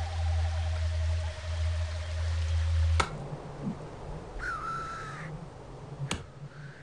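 A loud low drone with a faint gliding tone stops abruptly with a sharp click about three seconds in. A single hoarse bird call of about a second follows, falling then level in pitch, and a second sharp click comes about six seconds in.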